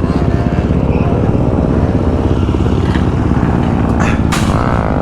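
Dirt bike engine running close by, its pitch rising and falling a little, with a couple of sharp clatters about four seconds in.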